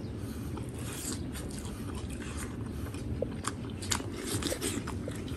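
A person chewing a mouthful of tender stewed yellow-fat beef close to the microphone, with scattered short wet clicks and smacks from the mouth over a steady low background noise.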